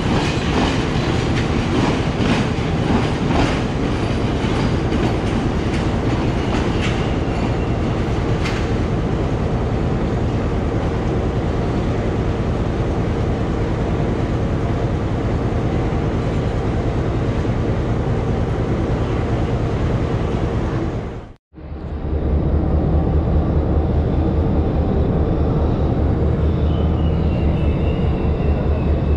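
Passenger train carriages rolling past along the platform track, wheels clicking over rail joints for the first several seconds, then a steady rumble. About two-thirds of the way through, the sound cuts off abruptly and is replaced by a steady low drone, with a faint falling whine near the end.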